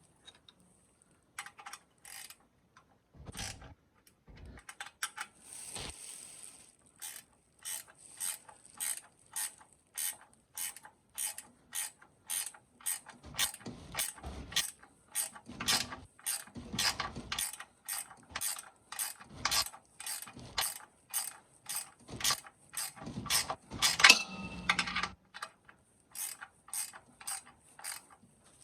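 Socket ratchet wrench clicking in steady, even strokes, about two clicks a second, with a louder clatter of metal about 24 seconds in.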